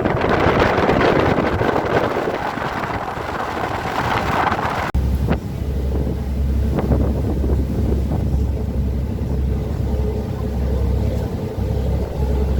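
Wind blasting the microphone with a rushing noise. About five seconds in it cuts off abruptly, and a steady low engine drone takes over.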